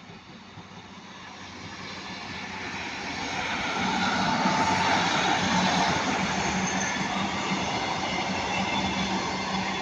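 A British Rail Class 150 Sprinter diesel multiple unit approaching and passing. The sound grows louder over the first four seconds, then runs on steadily, with a steady low engine hum under the rail noise.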